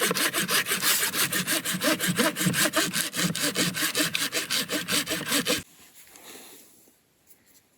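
Hand saw cutting through wood in quick, even back-and-forth strokes, stopping abruptly a little over two-thirds of the way through.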